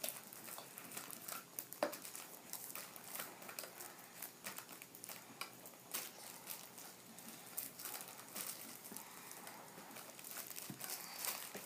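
Packaging crinkling and rustling as it is handled, with irregular small crackles and clicks.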